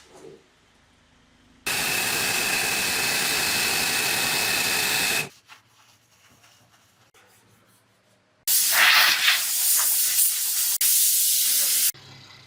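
Pressurised gas hissing out of a nozzle in two long bursts of about three and a half seconds each. The first carries a steady whistle; the second is rougher and breaks off briefly near its end.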